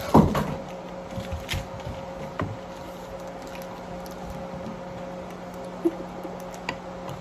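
Light handling of small plastic toy packaging: a few scattered soft clicks and rustles over a steady low hum.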